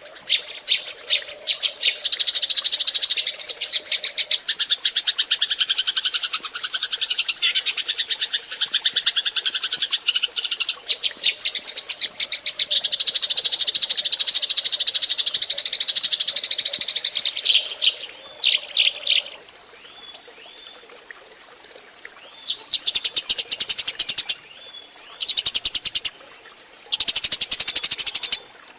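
Eurasian tree sparrows chirping in a dense, rapid chorus of many overlapping calls. The chorus drops away about two-thirds of the way through, then returns in short loud bursts near the end.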